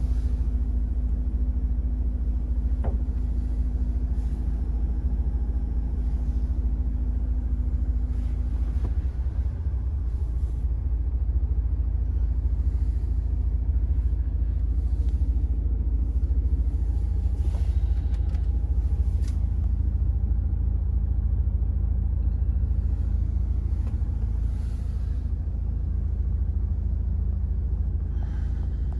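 The DAF CF480 tractor unit's 480 bhp PACCAR six-cylinder diesel engine running steadily with a deep, even rumble. Light clicks and knocks are scattered over it.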